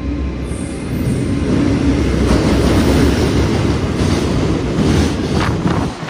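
JR Freight EF210 electric locomotive and its container wagons passing through at speed: a loud rolling rumble that swells about a second in, with the wheels clacking over the rail joints and points.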